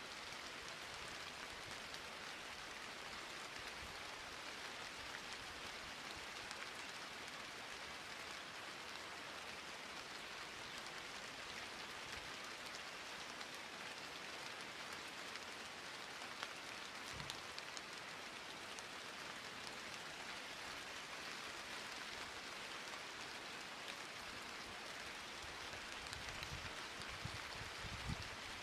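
Steady rain falling, an even hiss of many drops. A few brief low thumps sound about two-thirds of the way through and again near the end.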